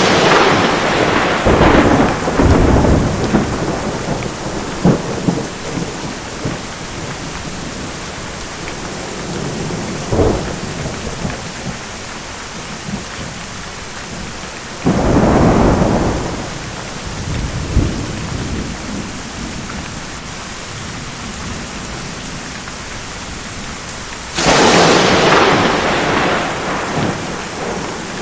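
Thunderstorm: steady rain with thunder. A sharp crack rolling into rumbling at the start, another rumble about halfway through, and a second sharp crack with rumbling near the end.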